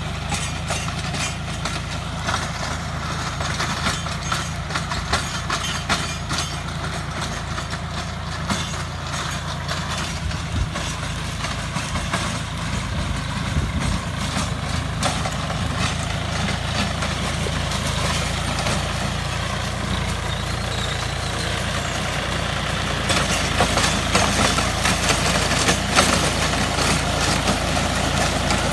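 Tractor diesel engine running steadily while driving a rotavator (rotary tiller) through the ground, with irregular crackling and clattering over the engine hum; it grows a little louder near the end.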